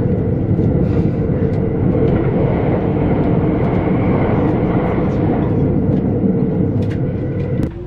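Train running at speed, heard from inside the carriage: a steady low rumble of wheels on rail with a few faint clicks. The sound drops suddenly to a quieter level just before the end.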